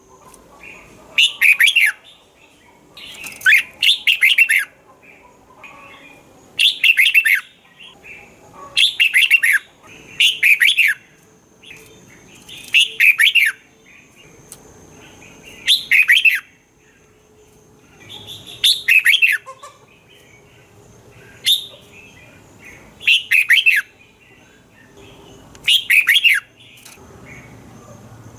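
Red-whiskered bulbul singing: short, bright warbling phrases, repeated about every two to three seconds.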